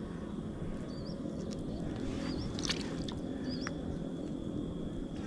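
A bird repeating a short rising chirp every second or so over steady low background noise, with a few faint clicks.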